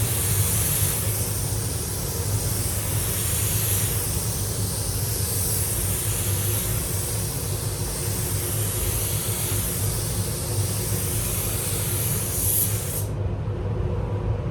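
Compressed-air spray gun hissing steadily while spraying primer, over a steady low hum. The hiss cuts off suddenly near the end as the gun is released.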